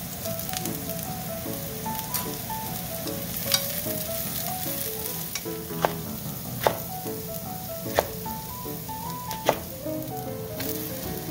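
Sliced eggplant and bitter melon sizzling steadily in a frying pan, with five sharp knocks of a knife striking a cutting board as shishito peppers are chopped.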